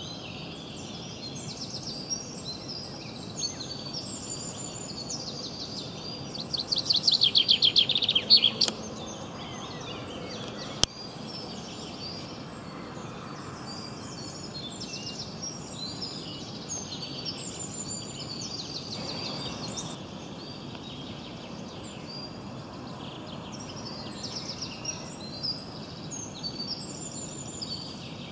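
Wild birds singing and chirping throughout, with a steady background hiss. About six seconds in comes a loud, rapid trill of repeated notes lasting about two seconds, and a single sharp click comes a few seconds later.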